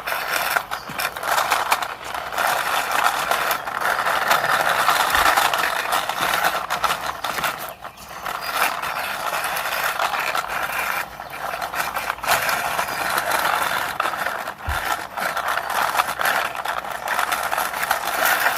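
Toy car pushed along a surface by hand, its wheels rolling and rattling in a continuous scraping run, with a couple of short pauses.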